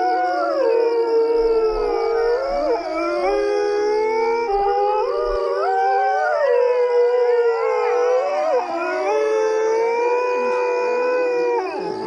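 A group of coyotes howling together: many overlapping, wavering voices rising and falling in pitch at once.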